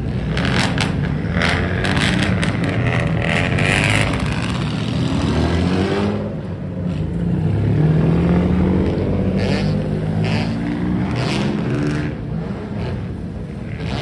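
Several car engines revving at once through loud exhausts, their pitches rising and falling over one another.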